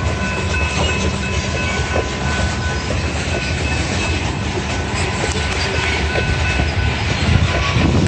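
Train passing: a steady rumble of railcar wheels running on the rails, with thin, steady high-pitched whines above it and a few faint clicks.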